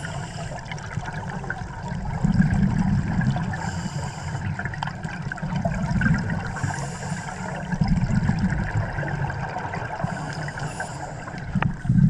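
Scuba diver breathing through a regulator, heard underwater: a hiss on each inhale, then a rush of exhaled bubbles, repeating every few seconds.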